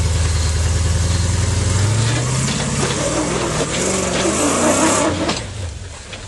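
Range Rover's engine under load on a rocky climb: it runs steadily for about two seconds, then revs up with the pitch rising for about three seconds, with a loud hiss over it, before the revs drop away near the end.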